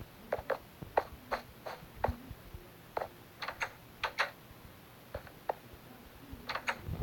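Irregular sharp taps and clicks, two or three a second, unevenly spaced, over a low steady background.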